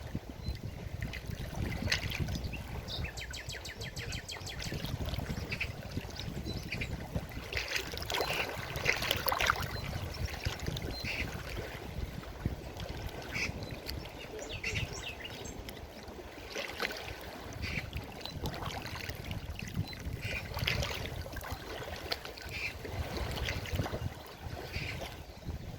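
Forest stream flowing over rocks: a continuous low rush full of irregular gurgles and small splashes.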